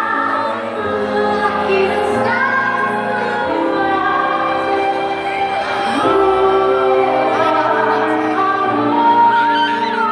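Music with singing: voices holding long notes that change pitch every second or so.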